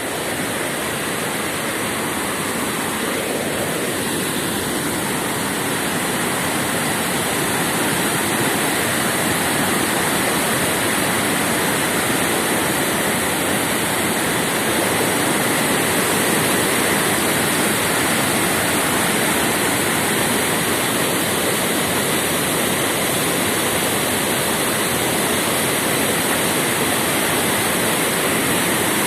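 Waterfall: the steady rush of falling water crashing down.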